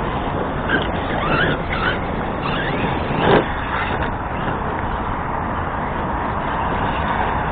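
Arrma Kraton RC truck's stock BLX brushless system whining up and down in pitch as it is driven, over steady outdoor background noise, with one short loud thump about three seconds in.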